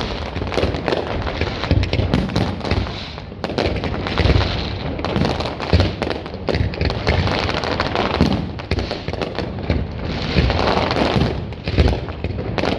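Fireworks display: a rapid, irregular run of booming shell bursts and crackling, with no pause.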